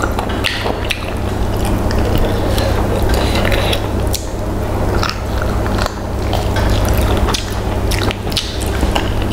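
Close-miked chewing and wet mouth smacking as a woman eats fried chicken with her fingers, with irregular smacks and bites throughout. A steady low hum runs underneath.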